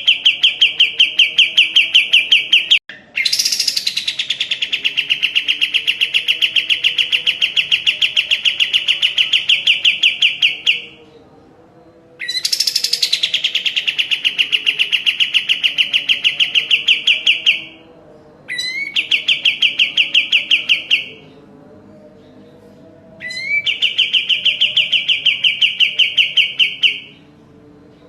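Kapas tembak, a bulbul kept as an Indonesian song bird, singing loudly in long chattering phrases of rapid repeated notes, about ten a second, each phrase starting with a sharp rising note. Five phrases of a few seconds each, with short pauses between them.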